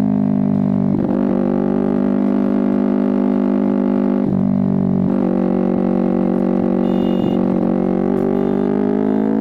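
Kawasaki Ninja 250R's parallel-twin engine and exhaust pulling steadily under way, a continuous droning note. The pitch dips briefly about four seconds in, as at a gear change, and rises again near the end as the bike picks up speed.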